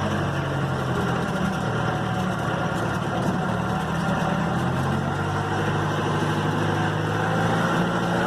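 Mahindra jeep engine running steadily, its pitch shifting slightly up and down.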